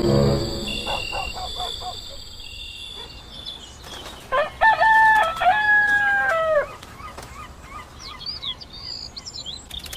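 A rooster crowing once, a long call of about two seconds near the middle that drops in pitch at its end, followed by small birds chirping. A steady high insect drone runs underneath in the first seconds.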